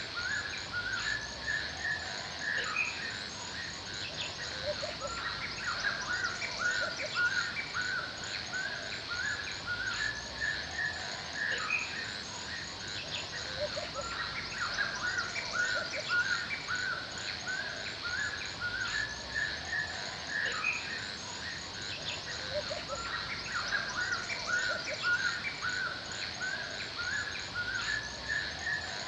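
Forest ambience: small birds chirping and calling over and over, over a steady high insect buzz with a regular high-pitched pulsing.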